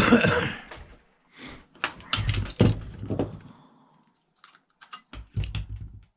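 Clanks, knocks and rattles of metal parts of a cash register being handled on a workbench during teardown: a loud knock at the start, a clatter about two to three seconds in, and a quick run of clicks and knocks near the end.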